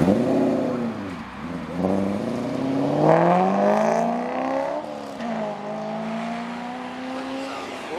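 Car engine revved sharply, then accelerating hard with the pitch climbing. It drops suddenly at a gear change about five seconds in, then climbs again.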